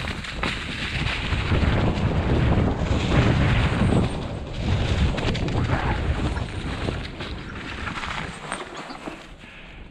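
Wind buffeting the microphone: a rough, rumbling noise that swells in the middle and eases off near the end.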